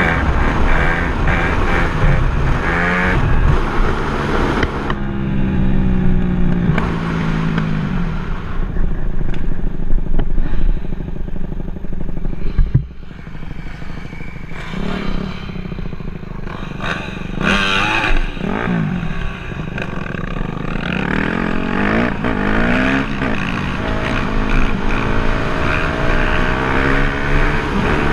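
Dirt bike engine revving up and down repeatedly, its pitch rising and falling, with a brief drop off the throttle about halfway through.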